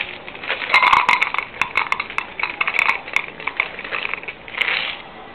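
A cat close to the microphone: a dense run of sharp clicks and crackles for about two and a half seconds, then a short burst near the end.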